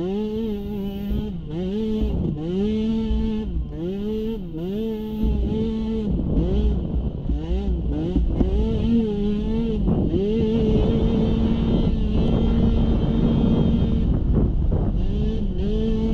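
Small youth ATV engine under throttle, its pitch climbing and dropping about once a second as the throttle is worked on and off, then held higher and steadier for a few seconds past the middle.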